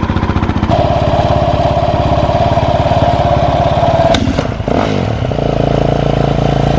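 Dirt bike engine running, revved up about a second in, then dropping back near the middle and settling into a steady idle.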